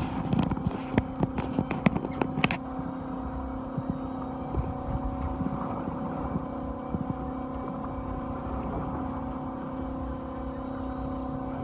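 Fishing boat's engine running with a steady hum. A run of sharp clicks and knocks sounds over it in the first couple of seconds.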